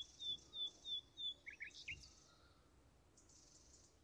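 A small bird chirping: a quick series of short, sharp chirps, about three a second, stopping a little over a second in, then a few quick rising notes. Only a faint hiss after that.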